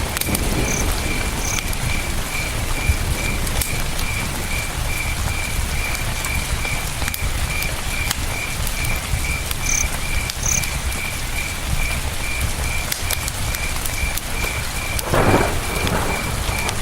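Campfire crackling with scattered sharp pops over a steady rush of river water, while a cricket chirps evenly about three times a second. About fifteen seconds in a single louder thump stands out.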